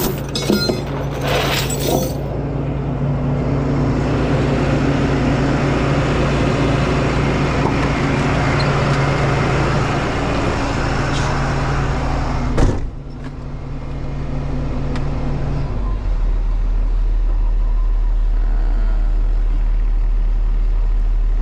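Hino box truck's diesel engine running with road noise, heard from inside the cab, with a few clinks in the first two seconds. About two-thirds of the way through, a brief sharp burst of noise, then the sound drops and settles into a low steady engine hum.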